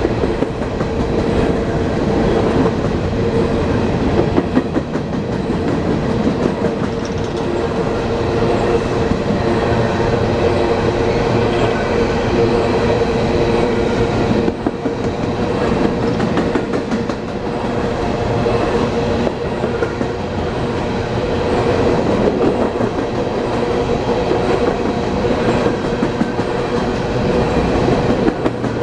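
A train rolling past, its wheels clicking over the rail joints, with a steady hum.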